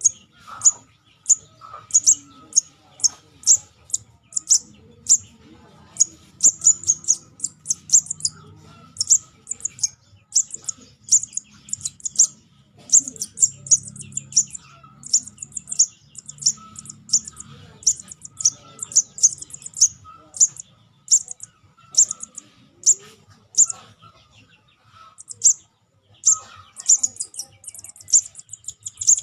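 Juvenile sogon bird calling: rapid series of short, sharp, high-pitched chirps repeated almost without pause, with a brief lull near the end. Used as a lure call to attract sogon and other small birds.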